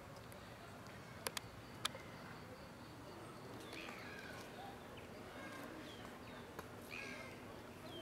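Birds chirping faintly in short, downward-sliding chirps that come repeatedly from about three and a half seconds in. A few sharp clicks sound earlier, around one and two seconds in.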